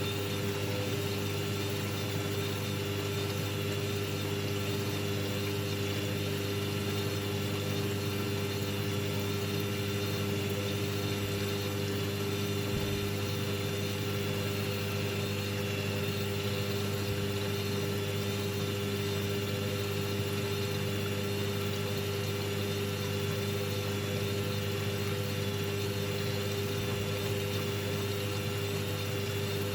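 Hoover washing machine running with a steady, even motor hum and a faint high whine, without pauses or changes.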